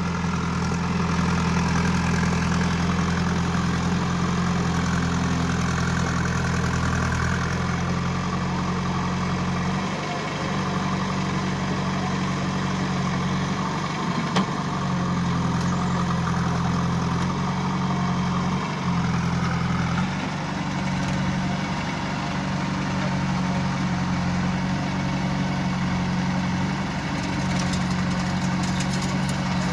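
JCB 3DX backhoe loader's Kirloskar diesel engine running steadily, its note dipping briefly several times as the machine works.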